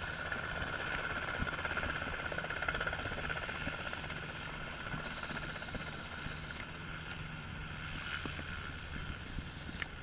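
Enstrom F-28 light helicopter's piston engine and rotor running with a steady drone, a little louder a couple of seconds in and then easing slightly.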